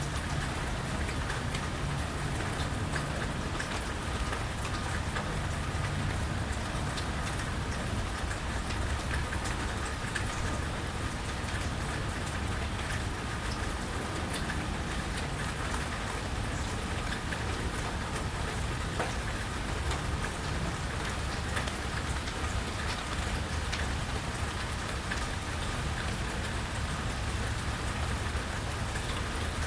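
Steady rain falling, a continuous hiss with many individual drops ticking close by. A low steady rumble runs underneath.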